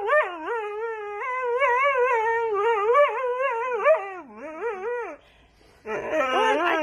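A dog making long, wavering howl-like vocalisations, its pitch sliding up and down without a break, with a short pause about five seconds in before it starts again.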